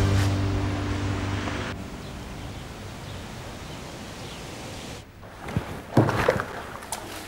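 Background music fades out over the first two seconds into a steady outdoor ambience hiss. After a short break about five seconds in, a few sharp knocks.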